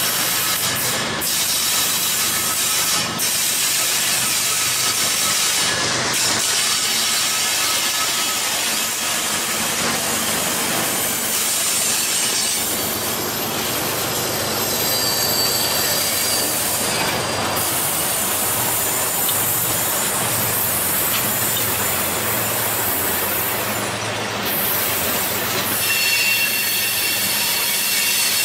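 Long freight train passing close by: three GE diesel-electric locomotives run past, then tank cars follow, with a steady loud rumble and clatter of steel wheels on rail. Thin high wheel squeals come through about halfway and again near the end.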